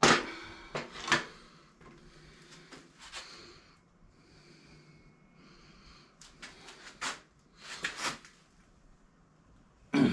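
A few sharp knocks and clicks of tools and metal engine parts being handled during the teardown of a small Briggs & Stratton lawn mower engine, with quieter handling noise between them.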